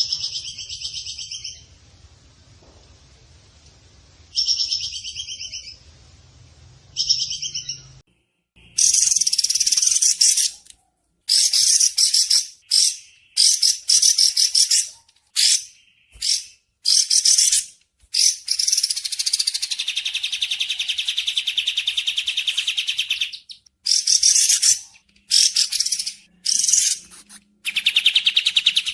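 Songbird calls: high, fast trilled phrases repeated in bursts, with a low hum under the first few. From about eight seconds in, the trills come thick and fast, broken by sudden gaps, with one long unbroken trill past the middle.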